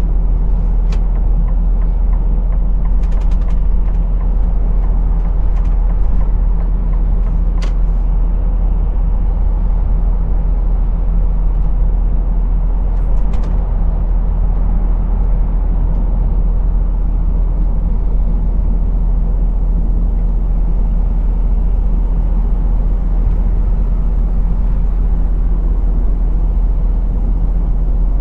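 Heavy goods vehicle's diesel engine running steadily under way, with a constant low hum and road noise. A few brief sharp clicks stand out over it.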